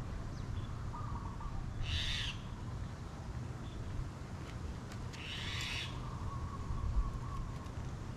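A bird calling in the background with faint cooing or hooting notes, plus two short bright rasps about two and five and a half seconds in, over a low rumble of wind on the microphone.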